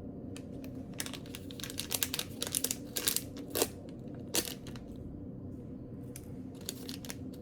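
Crinkling and rustling from something being handled, in irregular bursts that come thickest around the middle, over a steady low hum.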